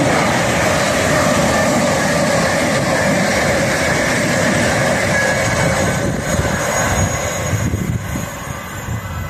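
Thameslink Class 700 electric multiple unit running through the station at speed without stopping: a loud, steady rush of wheels on rail and air. It eases and grows uneven in the last few seconds as the rear of the train passes.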